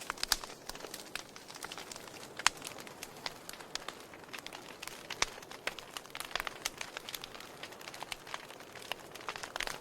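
Open fire crackling steadily, with irregular sharp pops; the loudest come about two and a half and about five seconds in.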